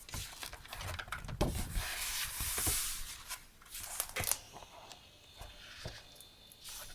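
Paper being handled and rustled, with a longer sliding rustle a second or two in and scattered light taps and clicks.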